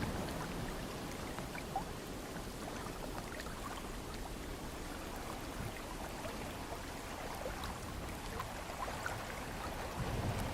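Ocean water lapping gently: a steady wash with small scattered splashes and drips.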